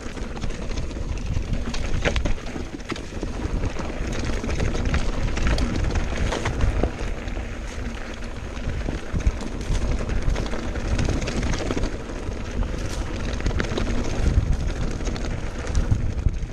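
Mountain bike descending a rough trail: wind buffeting the microphone over a steady rattle from tyres and frame, with frequent small knocks and clicks.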